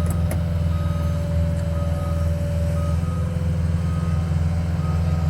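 Skid steer's diesel engine running steadily while a backup alarm beeps about once a second. A steady whine rides above the engine and drops slightly in pitch about halfway through.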